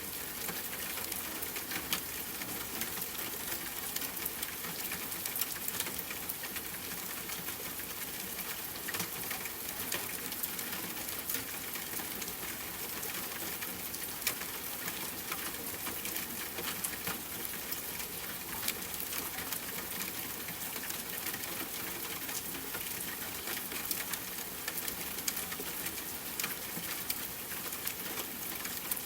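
Steady hiss of rainfall with a wood fire crackling over it in many small, irregular pops.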